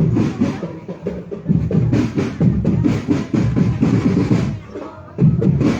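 Marching drum band's bass and snare drums playing a steady beat. The loudness dips briefly about five seconds in.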